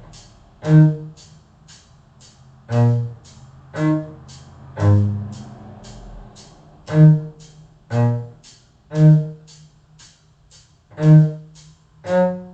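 Cello bowing single notes of a G sharp minor arpeggio (G sharp, B, D sharp), roughly one note a second with rests between groups. A faint steady click about twice a second keeps time beneath it.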